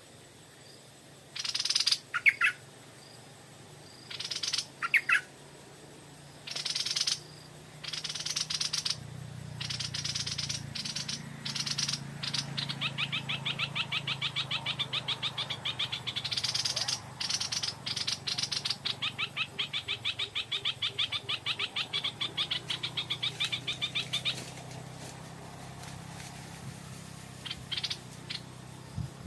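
Stripe-throated bulbuls calling: several short, sharp calls, then a long rapid chattering trill that starts about twelve seconds in, runs for roughly twelve seconds and stops suddenly, with a few more short calls near the end.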